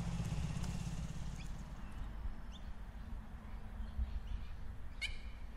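Motorcycle engine idling with a low, even pulse, fading away about a second and a half in. Birds chirp briefly a few times, loudest near the end.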